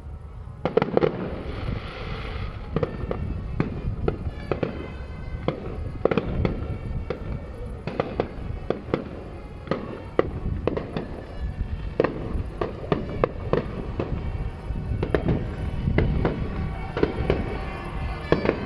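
Fireworks display: a rapid, irregular run of shell bursts and sharp cracking reports that starts about half a second in, with a crackling hiss early on.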